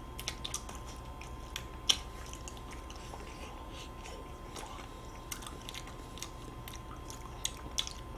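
Two people eating soft cookie-and-cream ice cream sandwiches, with bites and wet chewing close to the microphone. Scattered small mouth clicks run throughout, the sharpest about two seconds in.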